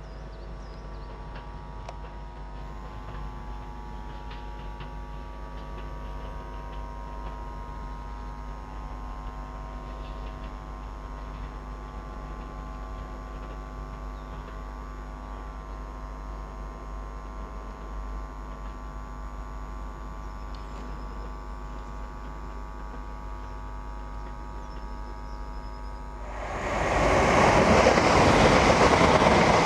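Electric multiple unit running away down the line, a steady hum of several even tones from its traction equipment. About 26 seconds in, a sudden loud rushing roar breaks in as a fast passenger train approaches.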